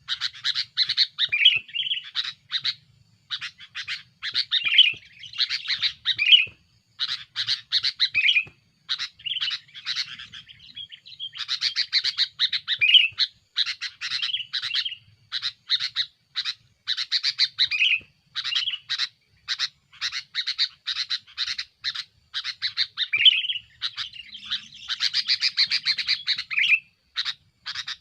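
Sooty-headed bulbul (kutilang) calling noisily: quick runs of sharp chattering notes mixed with short warbled phrases, broken by brief pauses. This is a male's lively, aggressive calling at a rival, the kind used as a lure call.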